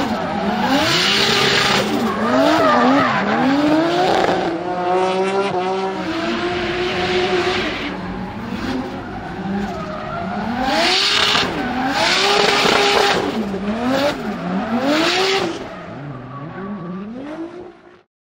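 Turbocharged Toyota 2JZ-GTE straight-six in a BMW M3 E46 revving up and down over and over while drifting, with several bursts of tyre squeal. The sound cuts off suddenly near the end.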